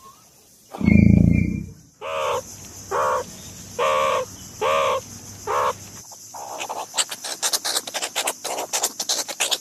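A crow cawing five times, each harsh call about half a second long and just under a second apart. It follows a short, loud, deep sound about a second in, and gives way to a rapid clatter of clicks over the last few seconds.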